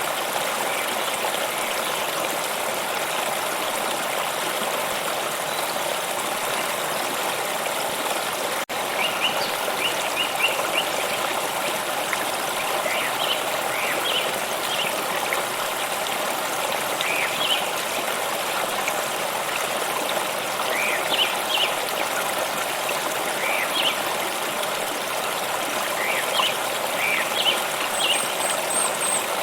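A stream running steadily. After a momentary dip about a third of the way in, short bird chirps come in and out over the water.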